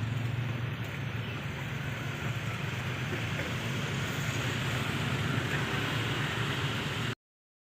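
Diesel locomotive engine running at idle: a steady low hum under a wash of noise. The sound cuts off suddenly near the end.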